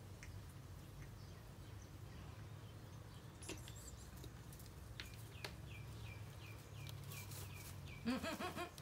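Faint steady background hum with a few soft clicks, and a small bird chirping from about halfway in, a quick run of short, high, falling notes several times a second.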